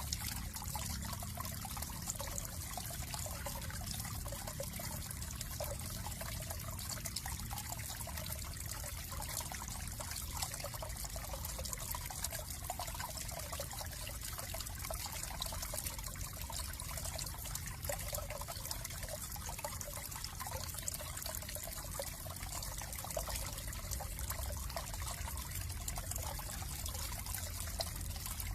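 Water trickling and splashing steadily, like a small stream or water feature.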